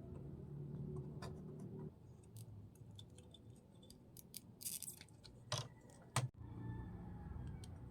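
Small clicks, taps and ticks of tools and small parts being handled, with a low steady hum for the first two seconds, a brief hiss about halfway through and a sharp click near the end.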